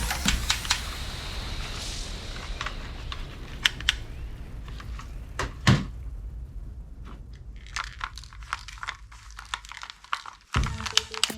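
Handling noises: crinkling of plastic packaging over the first two seconds, then scattered clicks and knocks, with one heavier knock about six seconds in.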